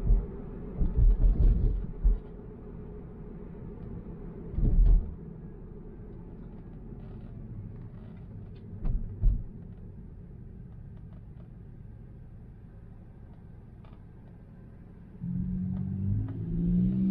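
Road rumble of a Tesla on the move, with several short, loud low thumps as it passes over bumps. Near the end, steady pitched musical tones begin.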